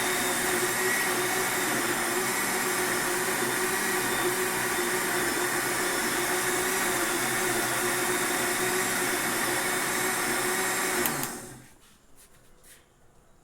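Electric blender motor running at a steady speed, then switched off about eleven seconds in and winding down within a second, followed by a few faint clicks.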